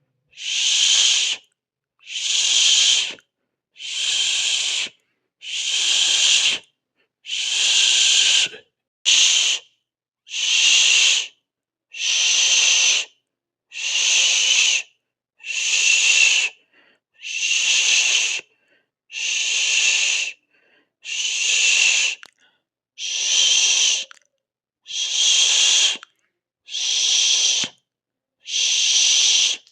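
A person hissing through the teeth, a breathy 'sss' drawn out for a little over a second and repeated about every two seconds, with short silent pauses between, about fifteen times.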